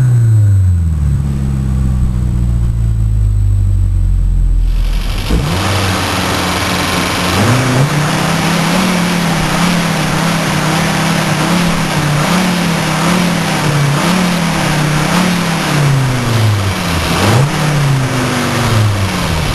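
Mercedes-Benz 190E engine and exhaust while the car is driven. The engine note falls for the first few seconds; about five seconds in a loud rushing noise sets in. The revs then climb and hold with small rises and dips, drop sharply near the end and climb again.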